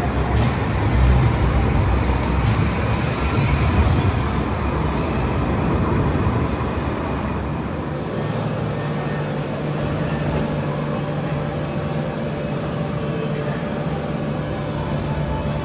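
Light rail tram running by, with a heavy low rumble and a few clicks over the first few seconds that settle into a steadier, quieter hum.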